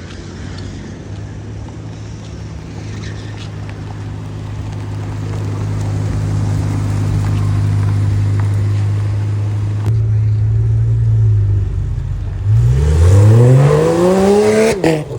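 Car engine running with a steady note that grows gradually louder, then revved near the end, its pitch climbing quickly before it cuts off.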